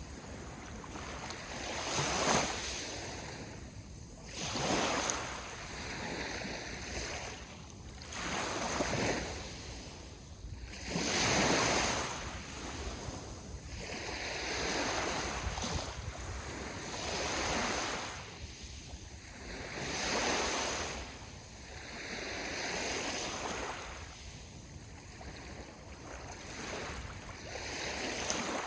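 Sea waves washing onto the shore, surging and receding every two seconds or so, the loudest surge about eleven seconds in.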